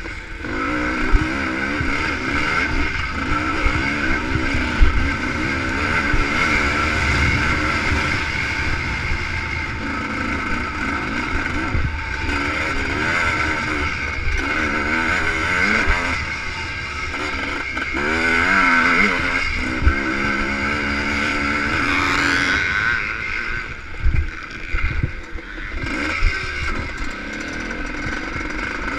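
Two-stroke ČZ motocross bike engine, heard from a camera on the bike, revving up and down again and again as it is ridden hard around a dirt track. A few sharp knocks stand out above the engine.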